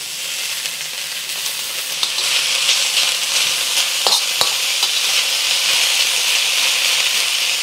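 Drained preserved vegetables sizzling steadily in a hot dry wok, dry-frying to drive off their moisture, stirred with a metal wok spatula; the sizzle starts suddenly as they go in, with a couple of spatula clicks about four seconds in.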